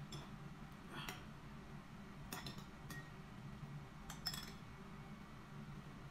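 A metal spoon clinking lightly against a ceramic bowl of soup, a few separate clinks spread through, one ringing briefly. A low steady hum runs underneath.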